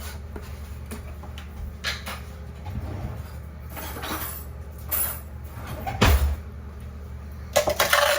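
Scoops of protein powder being put into a container: light knocks and scrapes of plastic scoop and tub, with a heavier thump about six seconds in and a louder rattling clatter near the end. A low steady hum sits underneath.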